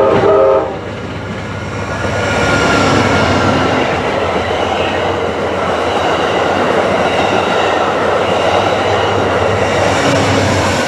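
A passenger train's multi-chime horn ends with a blast that cuts off just under a second in, then the train passes close by with a loud, steady rush of wheels on rails, with faint high ringing tones over it.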